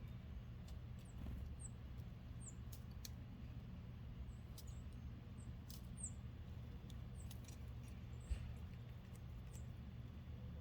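Small wild birds giving short, high-pitched chirps every second or so, with scattered sharp clicks, over a low steady rumble; a single thump about eight seconds in.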